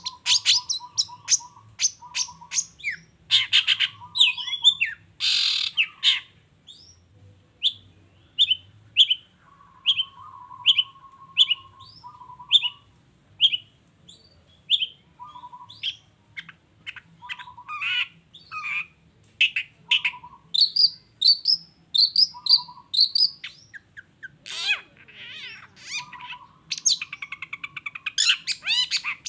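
Long-tailed shrike (cendet) singing: quick high chirps and a long run of short, evenly repeated whistled notes about every half second, mixed with lower trilled notes and a few harsh rasping calls.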